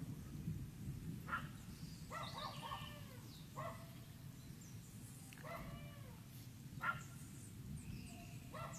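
A dog whining in short calls that rise and fall in pitch, about six of them, over a steady low rumble.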